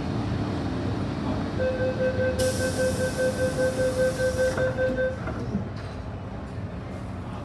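MTR M-Train door-closing warning: a rapid electronic beeping, about four pulses a second, sounding for about three and a half seconds over the carriage's steady hum, with a hiss partway through. It ends with a soft knock as the doors shut, after which the hum is quieter.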